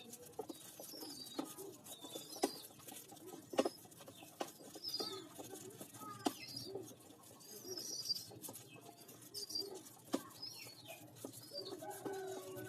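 Pigeons calling: short, high, squeaky calls repeat about once a second over low cooing, with scattered sharp clicks in between.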